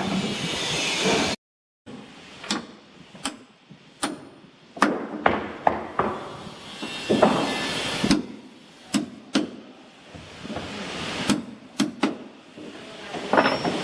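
Irregular knocks and bangs of work on a wooden boat, about a dozen sharp strikes at uneven spacing, with a brief dropout about a second and a half in.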